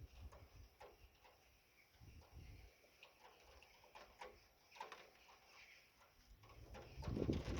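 Faint, irregular ticks of raindrops falling on a surface. A louder, lower sound starts about seven seconds in.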